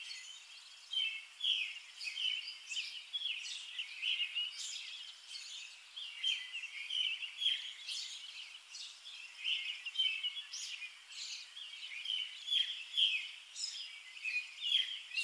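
Small birds chirping: a busy chatter of many short, quick calls overlapping one another.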